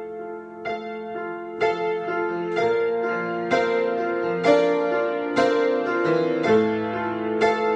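Improvised solo piano: sustained chords struck about once a second, each ringing on into the next, growing louder across the passage.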